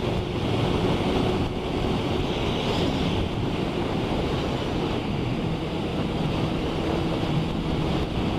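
Steady rush of wind buffeting the microphone on a moving motorcycle, with the bike's engine humming faintly and steadily underneath.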